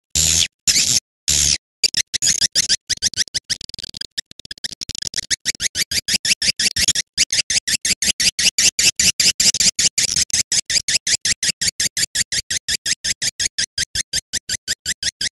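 Swiftlet lure-call recording: rapid, high-pitched chittering chirps of edible-nest swiftlets, repeated about eight times a second in an unbroken, machine-even loop, played to attract swiftlets to a nesting house.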